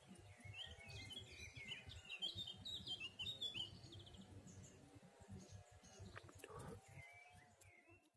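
Faint birdsong: a quick run of high chirps in the first few seconds, then a few fainter calls near the end, over a low uneven rumble.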